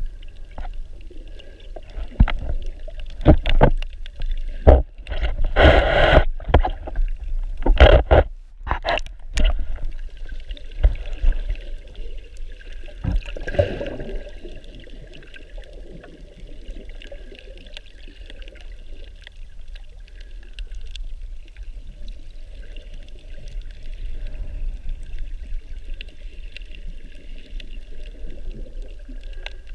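Water sloshing and splashing around a camera used while snorkeling, heard muffled. There are loud irregular surges and splashes over the first ten seconds or so, then a steadier, quieter underwater wash.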